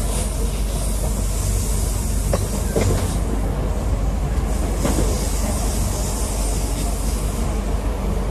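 Steady running noise inside the saloon of a Class 323 electric multiple unit on the move: wheel and track rumble with a constant hiss, and a few faint clicks from the wheels over the rails.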